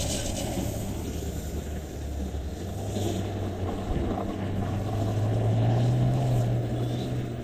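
A sports car's engine revving while it is driven in tight, fast circles (donuts) on a dirt lot. The engine note rises a little in pitch and grows louder about five seconds in.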